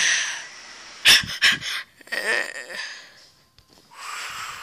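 Breathy, wheezing huffs and exhales from a person's voice, with a couple of sharper noisy strokes about a second in.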